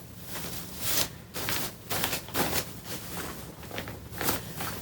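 Irregular soft rustles and clicks of handling close to the microphone, about a dozen short strokes unevenly spaced.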